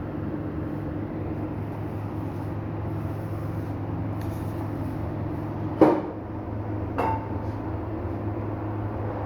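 Tyre-shop machine running with a steady low hum, broken by two sharp metallic knocks about a second apart past the middle; the first is the louder.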